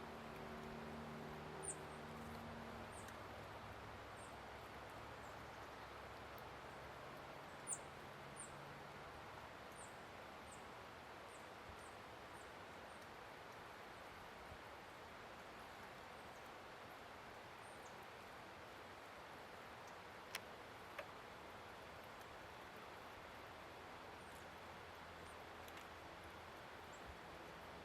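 Small songbirds at a feeder giving short, high chips, scattered irregularly over a faint steady outdoor hiss. A low hum fades out in the first few seconds, and two sharp clicks come about twenty seconds in.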